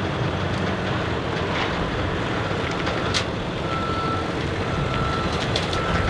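Tow truck's engine running steadily while the car is loaded onto it, with a warning beeper sounding about four times from about two seconds in, each beep about half a second long, and a single sharp click near the middle.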